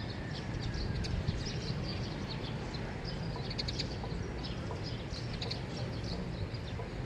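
Small birds chirping and twittering in quick, scattered calls in a neighbourhood at dawn, over a steady low rumble.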